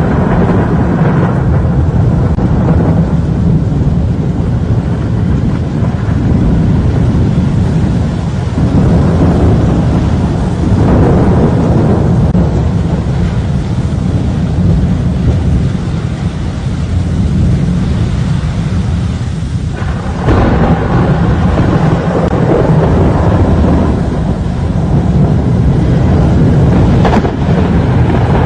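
Storm wind and rain: a loud, continuous rumble that swells and dips in gusts, with a sudden shift about twenty seconds in.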